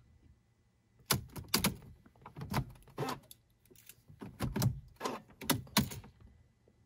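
A series of about a dozen sharp clicks and knocks from handling the key and controls in the car's cabin, with no starter or engine sound: the car is not cranking.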